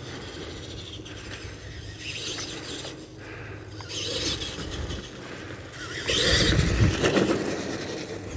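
Tamiya TXT-2 RC monster truck driving, its motor and drivetrain running steadily, louder from about six seconds in.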